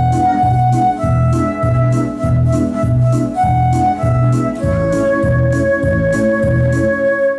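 Organ-voiced electronic keyboard music: a slow melody of held notes over a steady bass beat of about two notes a second, cutting off abruptly at the end.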